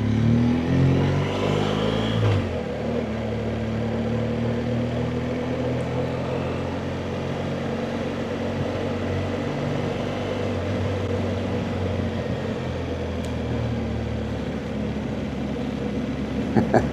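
BMW R1200GS boxer-twin engine pulling up through the revs for about two seconds, then running at a steady pitch while cruising.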